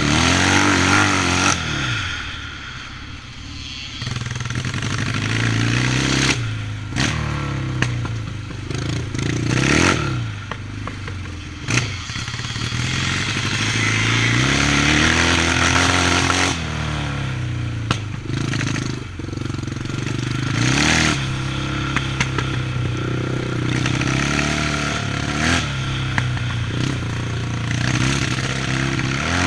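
Yamaha 650 motorcycle engine being ridden hard, its pitch climbing under throttle and dropping sharply again and again as the throttle is opened and shut every few seconds.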